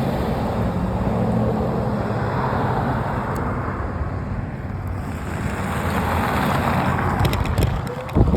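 Wind rushing over the microphone while riding along, over a low steady rumble. A few sharp clicks and knocks come near the end.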